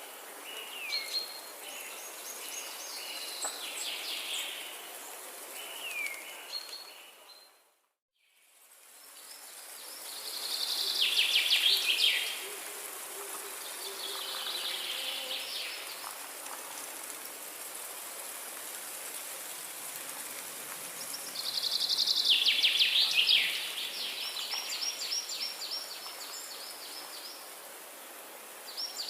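Forest ambience with birds singing: several songs of quick descending trills come and go over a steady background hiss. The sound fades out and back in about eight seconds in, as at a join between recordings.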